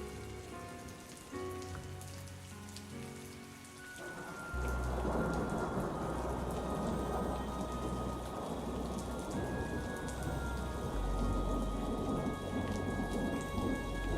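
Soft music with rain falling; about four and a half seconds in, heavy rain swells up with a deep, low rumble of thunder, and the music carries on faintly beneath it.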